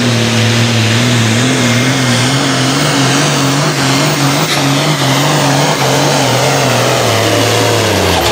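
White hot farm pulling tractor's engine running hard at high revs under load, its pitch wavering slightly, then dropping sharply near the end as the throttle comes off.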